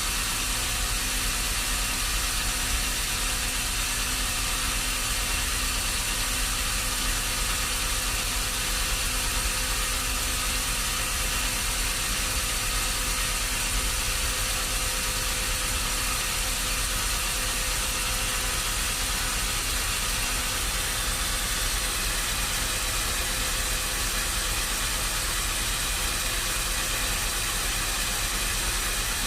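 An engine running steadily at an even speed with a constant hiss, with no rise or fall in load.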